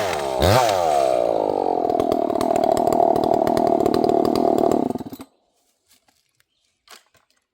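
Two-stroke gas chainsaw let off from full throttle: the revs drop, blip once briefly, then it idles for a few seconds before the engine stops about five seconds in. A few faint clicks follow.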